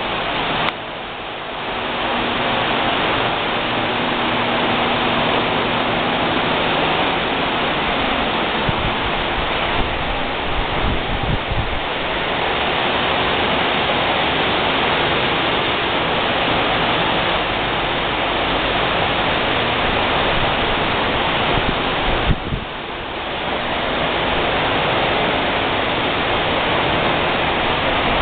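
John Deere 8320R tractor's diesel engine running steadily, heard as a dense rushing noise with a low hum beneath it.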